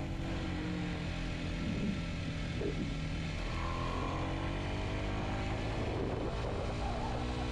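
Kawasaki Z125's single-cylinder four-stroke engine running steadily while riding, its pitch drifting gently up and down.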